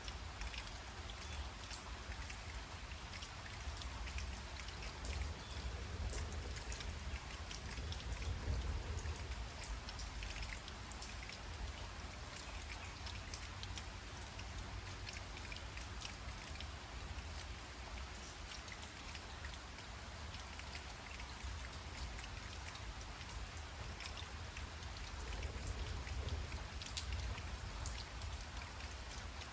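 Rain falling steadily, with many individual drops ticking close by over a continuous hiss. A low rumble runs underneath, swelling slightly twice.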